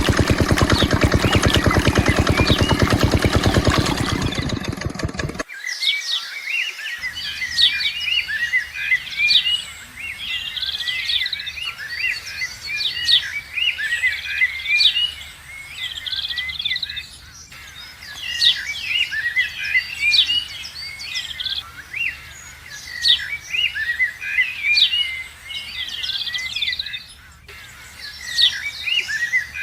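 Small diesel water-pump engine running at a steady beat for about five seconds, then cutting off abruptly. Birds then chirp and twitter over a faint low hum.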